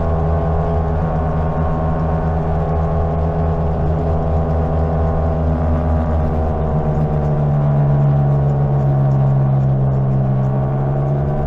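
Greenworks 60V electric mini bike's motor humming steadily while riding, a hum of several even tones. About seven seconds in the tones shift and it gets slightly louder, as with a change in speed.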